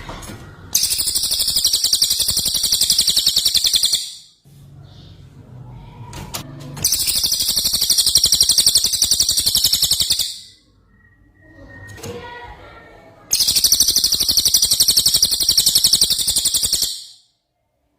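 Cucak ijo (green leafbird) song: three long bursts of very fast, high trilled notes, each lasting about three to four seconds, with quieter sounds in the gaps between them.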